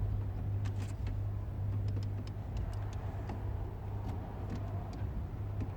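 Light, scattered clicks and rustles of cable being handled and run along a car's wiring loom, over a steady low hum.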